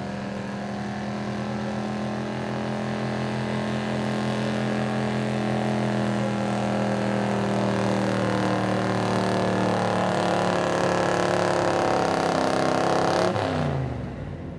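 Pulling truck's engine running hard at high revs through a run down the truck-pull track, slowly getting louder. About thirteen seconds in, the revs drop off sharply as the run ends.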